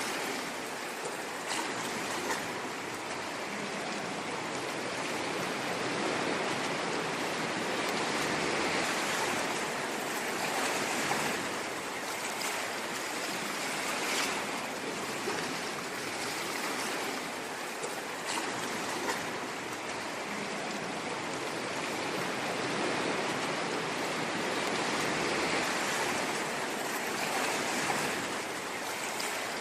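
Ocean waves washing on a shore: a continuous hiss of surf that slowly swells and eases, with faint crackles of water.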